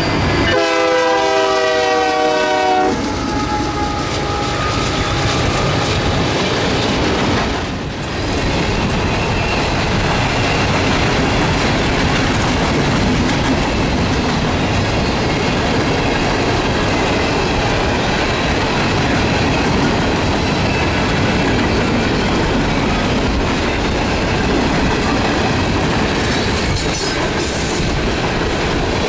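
Canadian Pacific diesel-hauled freight train passing close by: the locomotive's horn sounds a chord that cuts off about three seconds in. After it comes the steady loud rumble and clatter of the freight cars' wheels rolling past on the rails.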